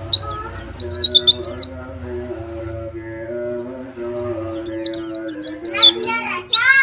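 White-eye (pleci) singing in two runs of fast, high, downward-slurred whistles ending in a rapid trill: one run at the start and another from about four and a half seconds in. Between the runs, steady low tones that change pitch in steps.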